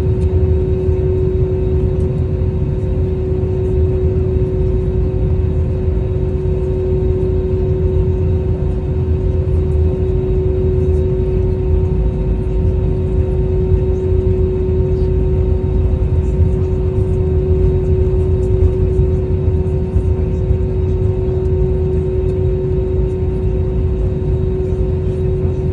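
Steady engine and airflow drone inside the cabin of an Airbus A320-271N, whose Pratt & Whitney PW1100G geared turbofans give a constant low rumble with a steady hum tone held throughout.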